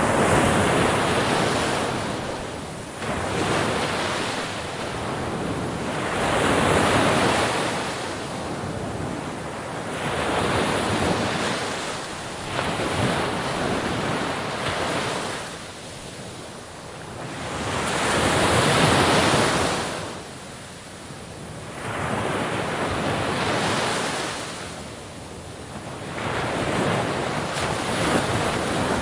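Sea waves breaking and washing on the shore, the surf swelling and falling away every few seconds, with some wind on the microphone.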